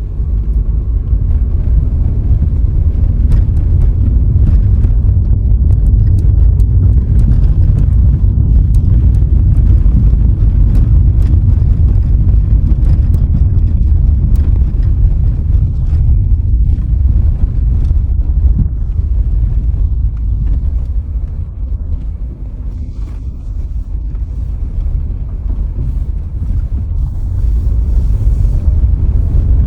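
Car driving along a road: a loud, steady low rumble of tyres and engine, easing off a little about two-thirds of the way through and building again near the end.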